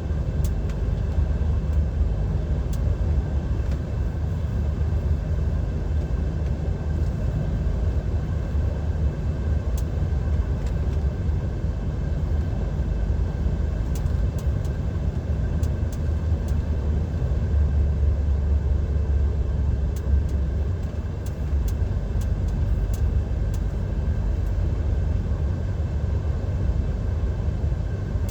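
DAF XF 530 lorry's six-cylinder diesel engine and road noise heard from inside the cab: a steady low rumble with a faint thin whine above it.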